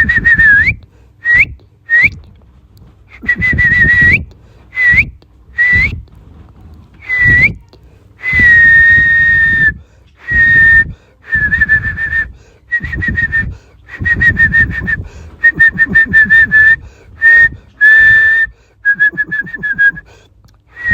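A run of whistled notes, all held at about the same pitch. Many end in a quick upward flick. Some are short and some are drawn out for a second or more, with brief gaps between.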